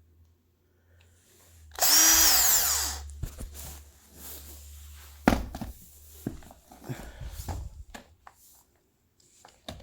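A power drill's motor is triggered once about two seconds in and runs for about a second, its pitch rising and then falling as it coasts down, showing that the drill still runs after being run over by a car. This is followed by a few clicks and knocks as the drill is handled.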